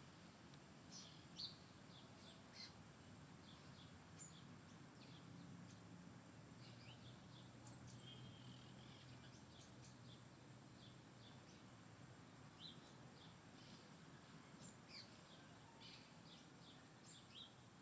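Small birds chirping faintly: many short, high chirps and tweets scattered throughout, over a faint low background rumble.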